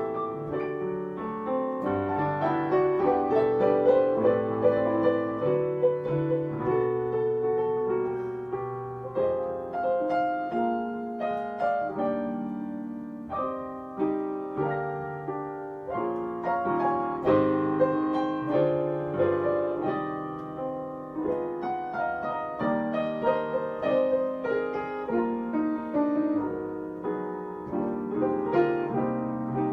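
Piano playing a flowing melody over chords, with notes struck one after another and left to ring.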